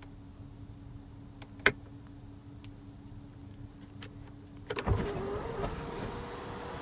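Electric motor of the 2015 Audi Q7's panoramic sunroof running with a steady whir, with a sharp click about a second and a half in. Near the five-second mark a clunk is followed by a louder, hissing whir as the sunroof moves open.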